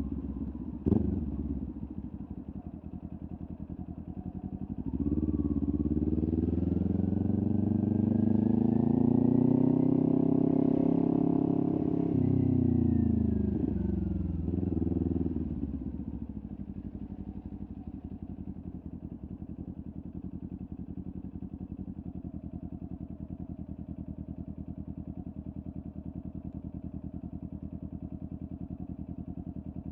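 Kawasaki Ninja 400 parallel-twin engine through a LeoVince aftermarket exhaust. A sharp knock comes about a second in. Then the revs climb steadily for several seconds and fall back, followed by a short blip, before the engine settles to a steady idle for the second half.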